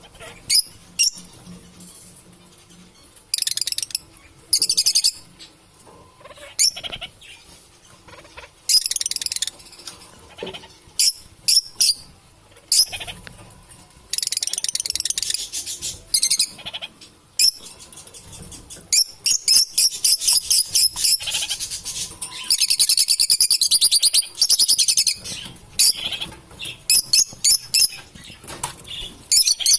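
Lovebirds chattering: many short, high-pitched chirps and rapid buzzy trills in irregular bursts, with longer runs of fast chatter around the middle and near the end.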